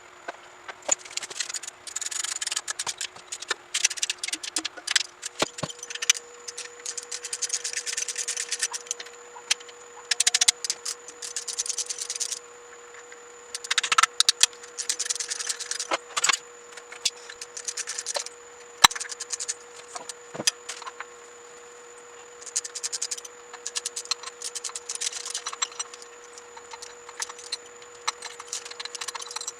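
Metal tools and small parts clinking and rattling in bursts of a few seconds, with short pauses between, during hands-on motorcycle work.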